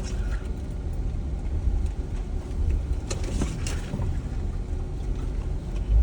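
Jeep driving slowly over a rough dirt trail: a steady low engine and drivetrain rumble with road noise, and a few short knocks and rattles about three seconds in.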